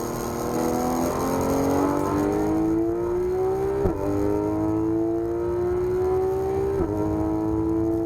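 Porsche 991 GT3 RS's naturally aspirated flat-six accelerating hard. Its pitch climbs steadily through each gear, with quick upshifts about four and seven seconds in.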